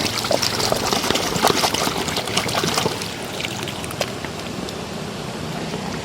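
Water splashing and trickling as a muddy toy vehicle is rinsed and rubbed by hand, with small plastic clicks and knocks. It is busiest in the first three seconds, then settles to a quieter steady trickle.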